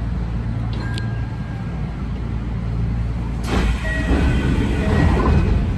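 Electric train running at speed: a steady low rumble of wheels on rail and traction motors. About three and a half seconds in, a louder rushing noise sets in and grows toward the end.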